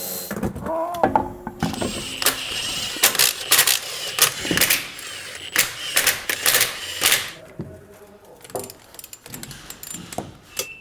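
Rapid clicking and clattering of workshop tools and metal parts, densest in the middle and thinning out near the end, with a brief gliding tone near the start.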